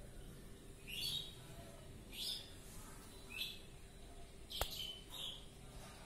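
A small bird chirping: about five short, high chirps, roughly one a second, with one sharp click near the end.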